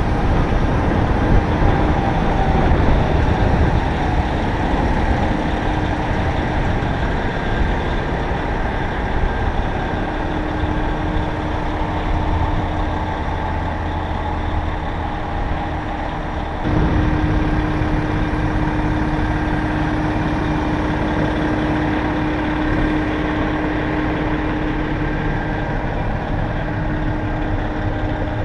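Diesel engine of a CAT 740B articulated dump truck running steadily, with a continuous low rumble and a steady hum. It gets louder about 17 seconds in.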